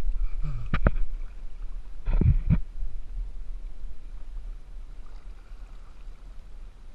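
Kayak paddling: a few sharp knocks, about a second in and again around two seconds in, over water and a steady low rumble of wind on the microphone.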